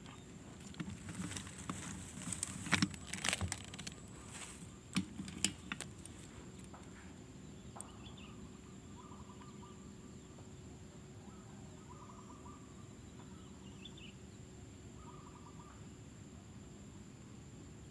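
Scattered clicks and rustles for the first few seconds, then a bird giving short trilled calls every couple of seconds over a steady high-pitched insect drone.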